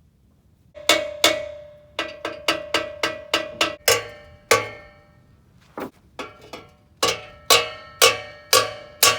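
Hammer blows ringing on a steel car exhaust pipe, about twenty strikes in quick runs of two or three a second, with a short pause about halfway through. The pipe is being pounded to free it from a seized joint, and it does not come loose.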